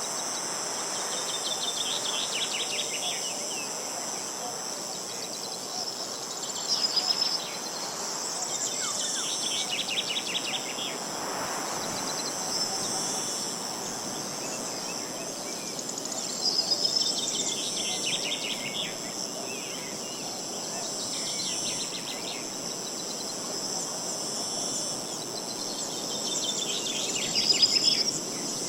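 A steady high-pitched insect chorus, with a songbird repeating a short trilled phrase every few seconds, over a low rush of wind.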